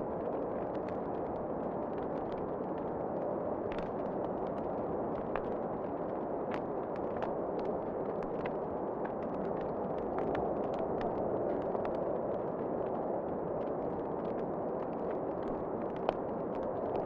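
Wood fire crackling in a fireplace: irregular sharp pops and snaps over a steady rushing noise, with one louder pop near the end.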